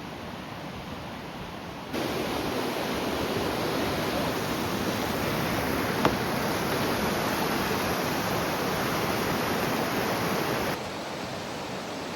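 Steady rushing outdoor noise with no tones, jumping louder about two seconds in and dropping again near the end, with a single sharp click in the middle.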